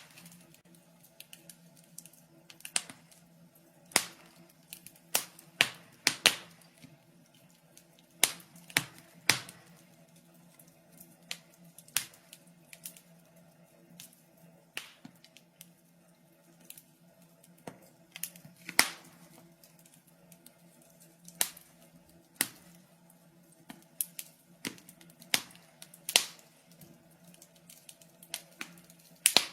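Wood fire crackling: irregular sharp pops and snaps, a few loud ones among many small ticks, over a faint steady hum.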